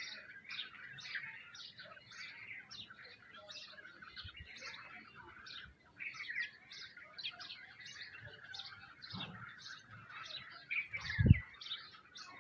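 Many small birds chirping at once in quick, overlapping calls. A single dull thump comes about 11 seconds in.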